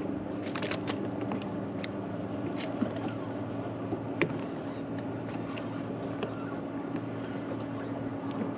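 Boat motor running with a steady hum, with a few sharp clicks and knocks, the loudest about four seconds in.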